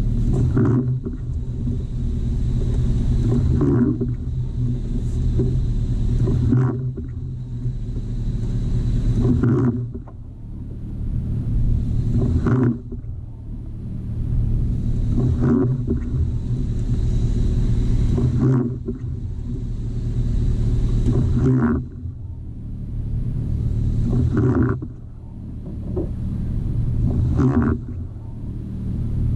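Jeep TJ's engine running steadily, with a second noise that builds and then cuts off sharply about every three seconds.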